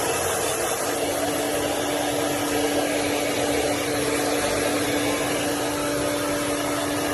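A steady motor whir with a constant low hum, like a blow dryer or vacuum cleaner, running without a break.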